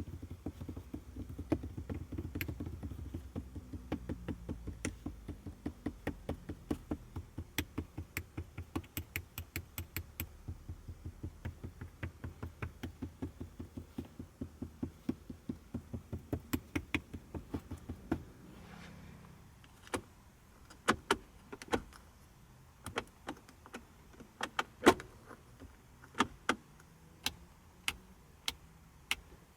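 Mechanical clicking from the interior of a 1984 Mercedes-Benz 500SEL: a fast, even run of clicks, about three a second, over a faint low hum for roughly the first eighteen seconds. Then scattered single clicks and taps follow, one louder knock among them.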